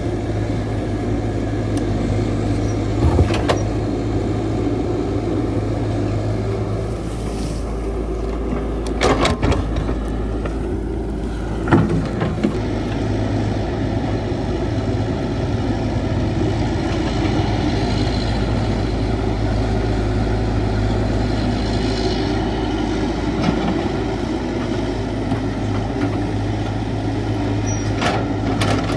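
Caterpillar 312 hydraulic excavator's diesel engine running steadily while digging soil, with a few sharp knocks scattered through; the loudest comes about twelve seconds in.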